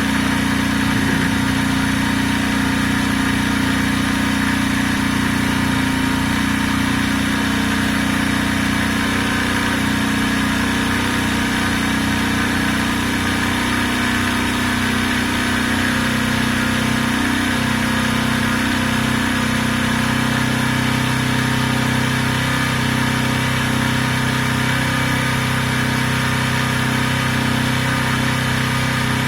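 Benelli Keeway 125cc motorcycle engine idling steadily on choke, running on its first start after long sitting; its idle note shifts lower about two-thirds of the way through.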